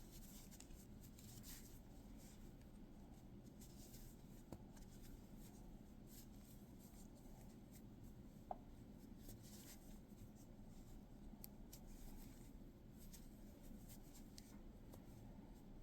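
Faint rustling and light scattered clicks of a crochet hook drawing thick blanket yarn through loops while a mini bobble stitch is worked, with one brief sharper tick about eight and a half seconds in.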